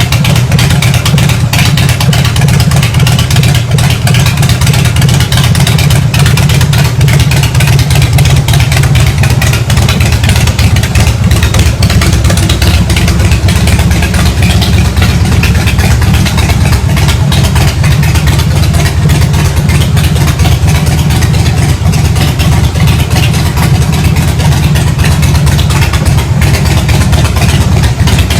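Harley-Davidson V-twin motorcycle exhaust running steadily at low revs, a loud, deep pulsing note with no clear revving.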